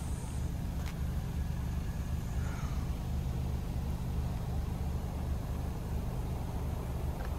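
Volkswagen Atlas SUV engine idling steadily, heard close behind the car at its exhaust tips: a low, even hum.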